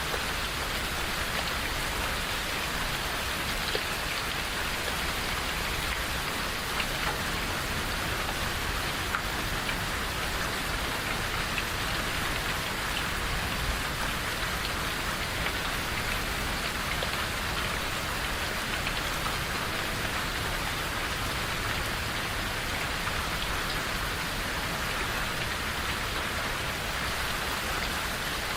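Steady rain falling in a forest, an even hiss with scattered drop ticks and a faint low rumble underneath.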